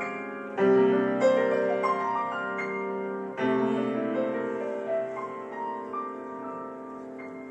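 Solo piano playing: a chord struck about half a second in and another about three seconds later, each left to ring and fade while lighter notes move above it.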